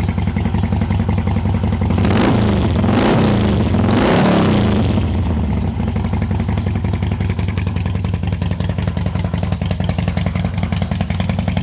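A 2009 Harley-Davidson Dyna Low Rider's Twin Cam 96 V-twin idles with its lumpy firing beat. About two seconds in, the throttle is blipped a few times, the revs rising and falling, before it drops back to idle.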